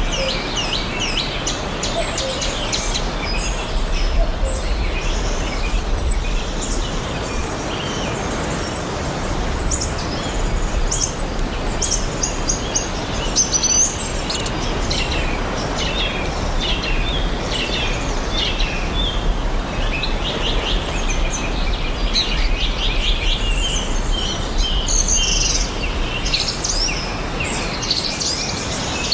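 Several songbirds chirping and singing in quick short calls and trills throughout, over a steady background hiss with a low rumble underneath.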